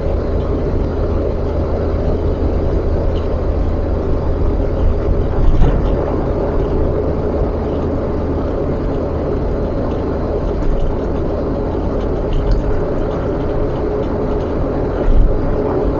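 Steady road and engine rumble heard from inside a moving car, with brief louder bumps about five and a half seconds in and again near the end.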